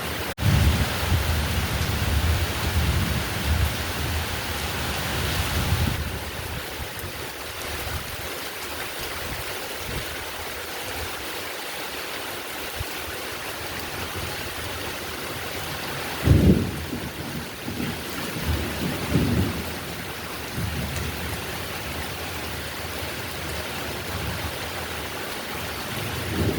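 Heavy rain falling steadily, with rolling thunder. Low thunder rumbles through the first several seconds, then the rain carries on alone until a sudden loud thunderclap about sixteen seconds in, followed by a few smaller rumbles.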